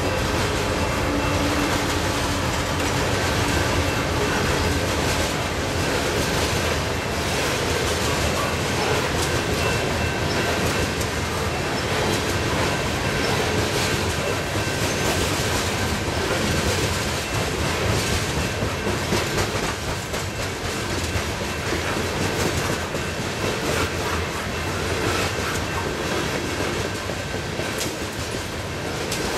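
Coal hopper cars of a freight train rolling past close by: a steady rumble of steel wheels on rail with continual clatter and clacking from the wheels and trucks.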